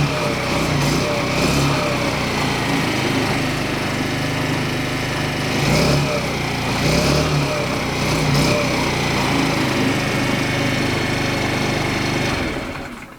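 Suzuki Choinori scooter's small single-cylinder four-stroke engine running cold at −10 °C, with a few short throttle blips, then cutting off near the end.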